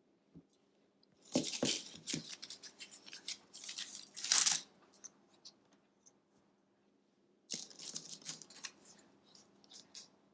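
Wooden jumbo craft sticks handled and laid down on a table: two spells of dry clattering and scraping, the first starting about a second in and ending with a loud, sharp scrape, the second starting a few seconds later.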